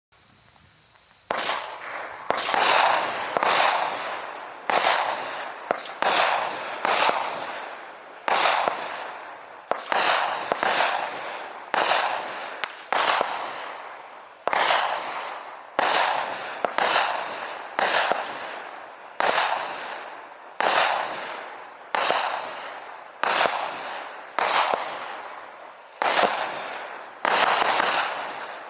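A 25-shot consumer firework cake firing its shots one after another, about one a second. Each shot is a sharp report followed by a hiss that fades away before the next.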